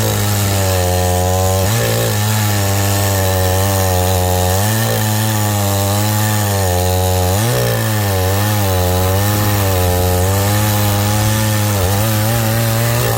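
Chainsaw running at high throttle while cutting logs for firewood, its engine note dipping and recovering a few times as the chain bites into the wood.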